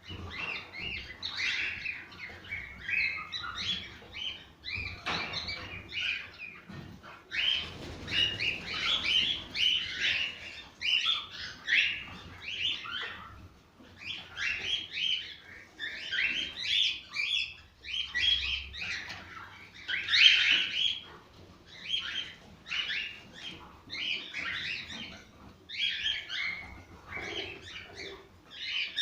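Cockatiels singing and chirping: a dense, continuous run of short warbled chirps in quick phrases.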